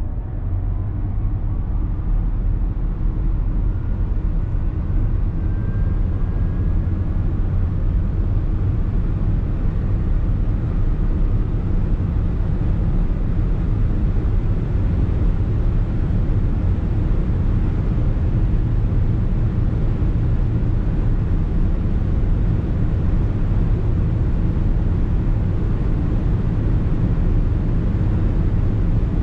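Audi e-tron 55 quattro's dual electric motors under hard acceleration. A thin motor whine rises in pitch over the first several seconds and then fades under steady road and wind noise that keeps building with speed over a constant low rumble.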